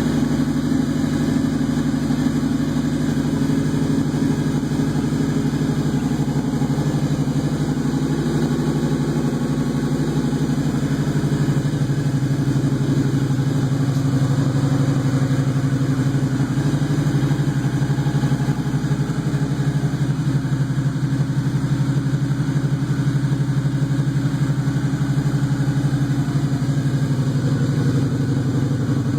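Harley-Davidson VRSCA V-Rod's liquid-cooled Revolution V-twin idling steadily as it warms up after a cold start.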